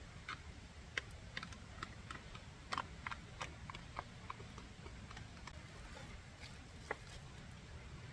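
A run of light, irregular clicks and taps over a low steady rumble, dense for the first five seconds or so, then only a few more.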